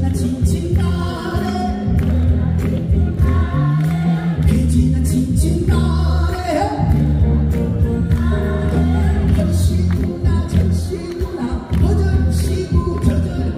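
Live amplified performance of a fusion song mixing jazz with Korean traditional music: singing over a backing track with a heavy, steady bass beat.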